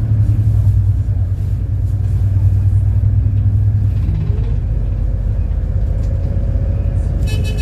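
City bus running with a steady low engine rumble. About four seconds in, a tone rises and then holds higher as the bus drives on. A brief high-pitched beep starts near the end.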